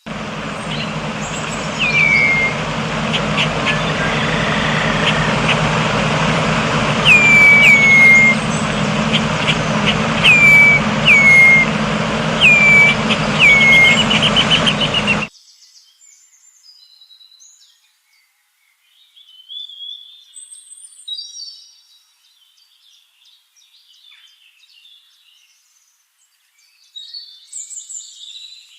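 A bird repeats a sharp whistled call that slides downward, about five times, over a loud steady rushing noise. The noise cuts off abruptly about halfway through. After that only faint, scattered bird chirps are left.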